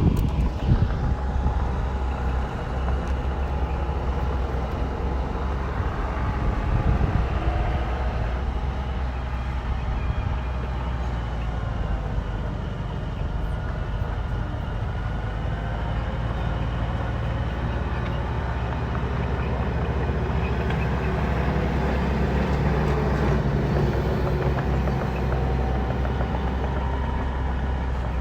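Bulldozer's diesel engine running under load, its engine speed rising and falling as it works.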